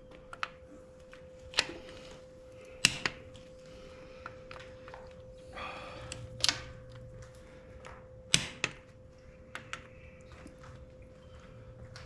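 Sharp metal clicks and knocks of a torque wrench and socket working on the Ford 8N's cylinder head bolts, a few scattered strokes several seconds apart, over a faint steady hum.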